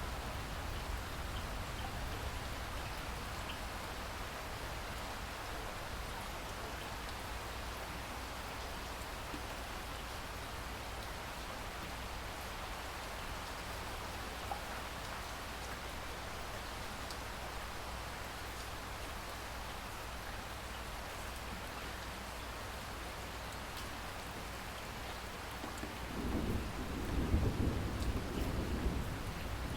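Steady rain falling, with a low roll of thunder rumbling in near the end.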